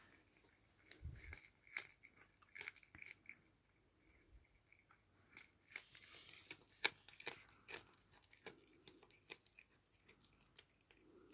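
A cat chewing a mouse: faint, irregular crunches and bites.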